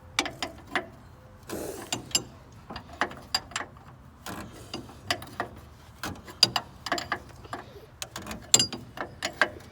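Ratchet wrench clicking in irregular runs as it tightens the upper A-arm bolts back down after alignment shims have been removed.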